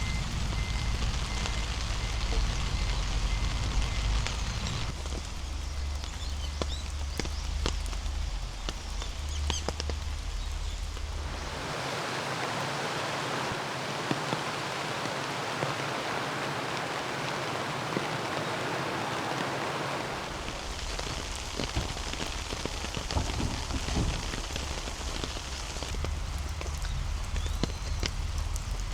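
Heavy rain falling steadily, with many close drops ticking sharply over the hiss. About twelve seconds in, a low rumble drops away and the rain hiss turns brighter and denser for roughly eight seconds before the earlier sound comes back.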